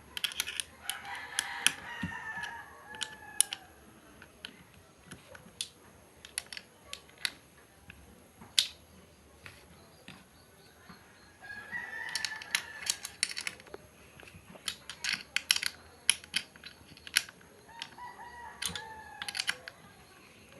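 Many sharp clicks and light knocks of small parts and tools being handled during assembly, with a rooster crowing three times in the background.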